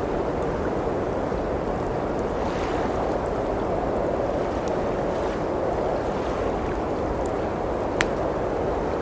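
Blizzard wind blowing steadily, with faint crackles from a wood fire and one sharper pop near the end.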